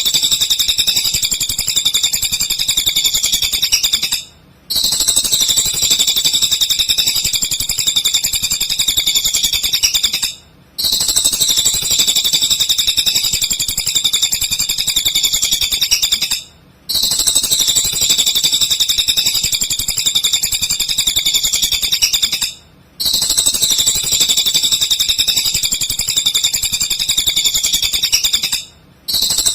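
A cililin songbird singing a continuous stream of rapid, high-pitched notes. The song comes in repeating stretches of about six seconds, each ending in a brief pause, as a looped recording does.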